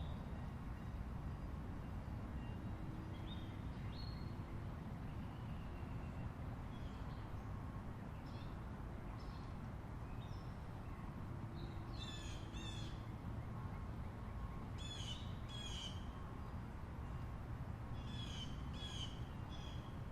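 A bird gives harsh, cawing calls in groups of two or three, starting about halfway through, over a steady low rumble. Fainter short chirps come in the first half.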